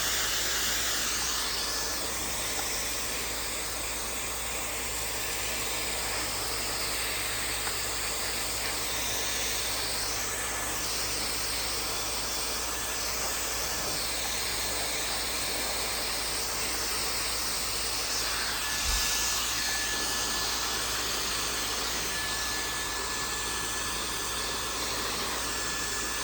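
Maxodo 1400-watt high-speed hair dryer running steadily, a rush of air with a thin high motor whine that fades and returns, and one small knock about nineteen seconds in.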